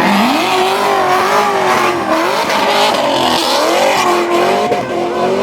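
Car engine revving hard at high rpm, its pitch rising and falling, with a hiss of noise in the middle that may be tyres.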